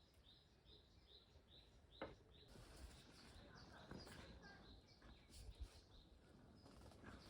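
Faint bird call: a quick, even series of short chirps, about two and a half a second, that stops around the middle. A sharp click comes about two seconds in, followed by soft rustling.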